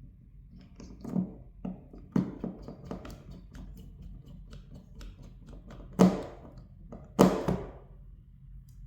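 Things being handled and set down on a work surface: a series of light taps and knocks, with two louder thunks about six and seven seconds in.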